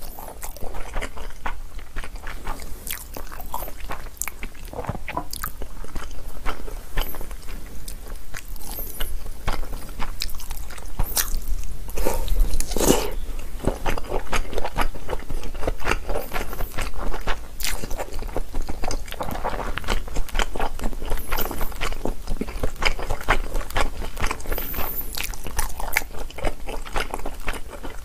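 Close-miked mouth sounds of eating chicken breast steak and jjapaghetti noodles: continuous chewing and biting with many short wet clicks.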